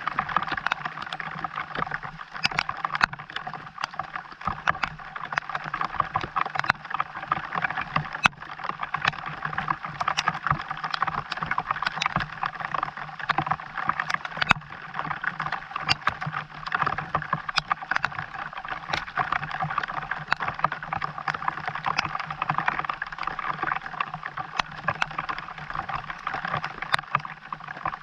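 Steady rain falling, with a constant patter of drops and many sharp ticks of individual drops striking close by.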